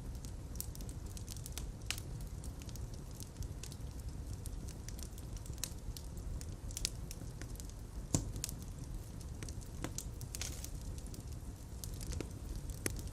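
Fireplace fire crackling: a steady low rumble of flames with irregular sharp pops and snaps, the loudest pop about eight seconds in.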